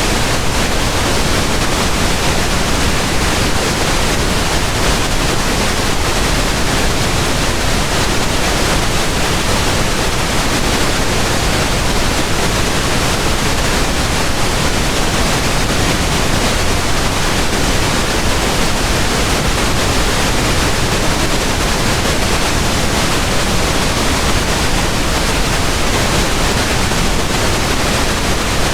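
Steady pink noise: an even, unchanging hiss spread across the whole range, fuller in the low end than white noise.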